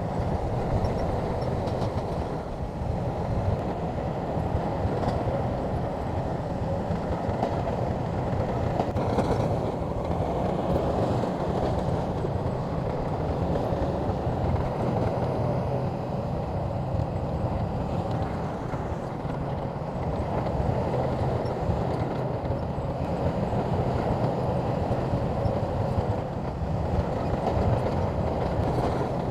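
Shantui bulldozer's diesel engine running steadily with a deep, even rumble.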